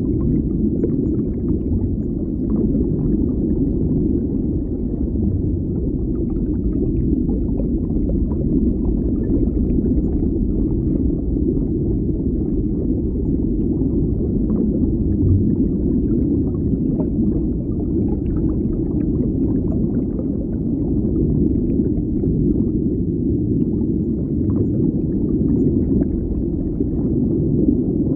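Underwater ambience: a steady low rumbling wash of water, with faint scattered bubbling ticks on top.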